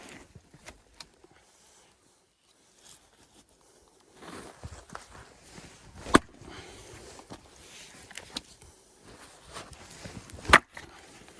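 Axe splitting firewood: two hard strikes about four seconds apart, with shuffling and small knocks of handling between them.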